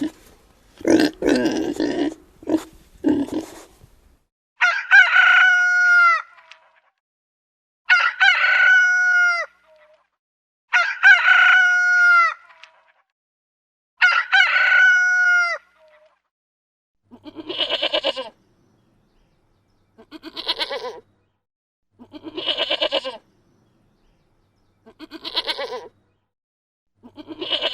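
A rooster crowing four times, each crow about two seconds long and about three seconds apart, followed by five shorter, quavering bleats. It opens with a few short, rough animal calls in the first four seconds.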